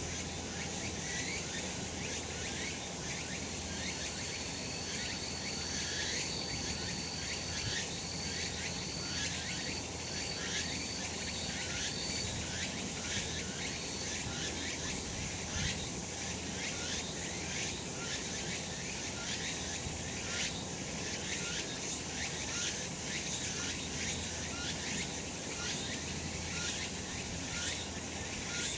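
Cicadas calling in a dense, continuous summer chorus of rapidly repeated buzzing pulses, with a thin, evenly repeated high note running through the first half.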